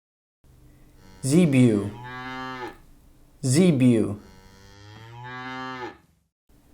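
Zebu (humped cattle) lowing: two drawn-out moos, a short one and then a longer one that grows louder before stopping.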